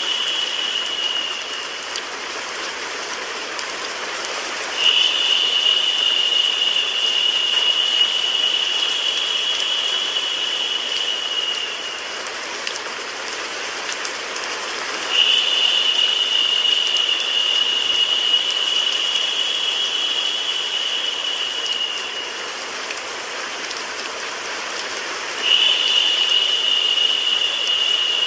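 Steady hiss of rain mixed with white noise. A high steady whine comes and goes over it: it drops out about a second in, then returns for roughly seven seconds at a time with gaps of about three seconds, and is louder than the hiss when it sounds.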